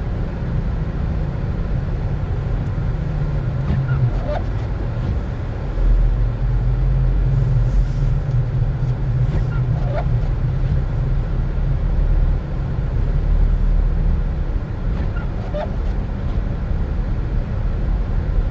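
Car driving on snow-covered roads: a steady low rumble of engine and tyres, with a faint short squeak about every six seconds.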